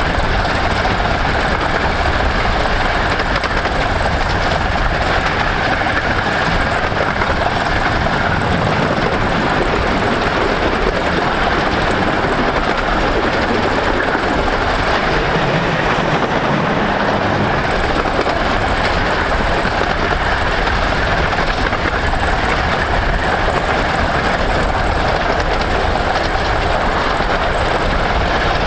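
A 15-inch-gauge miniature railway train hauled by the steam locomotive Hercules, running steadily along the line with a continuous rumble that stays at one level throughout.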